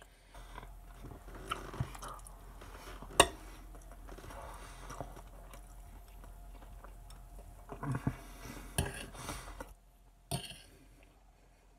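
Close-up chewing of baked potato and asparagus, wet mouth sounds coming and going, with a few sharp clicks of the metal fork, the loudest about three seconds in.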